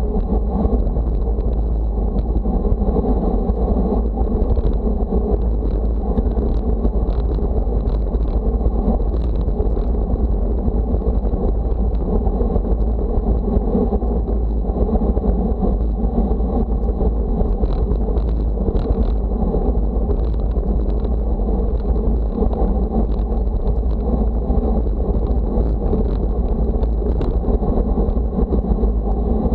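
Steady wind buffeting the microphone, a heavy low rumble with a dense rushing noise over it. A faint high steady whine and a few light ticks run under it.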